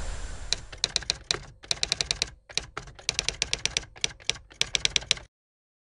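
Typing sound effect laid under on-screen text being typed out letter by letter: quick runs of sharp key clicks with short pauses between them, stopping abruptly about five seconds in.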